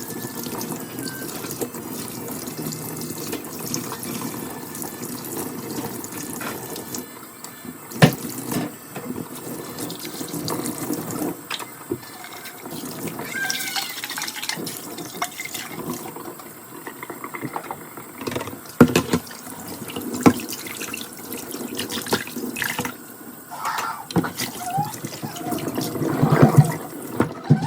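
Kitchen tap running into the sink during washing up, stopping about seven seconds in. Then dishes and utensils clink and knock in the sink, with one sharp knock soon after and short runs of water.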